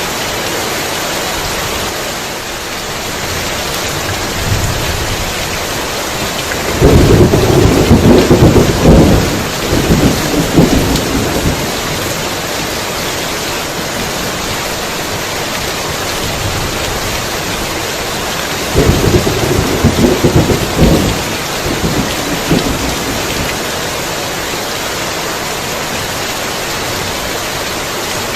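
Heavy rain falling steadily, with two rolls of thunder: the first about seven seconds in, lasting about four seconds, and a second, shorter one about nineteen seconds in.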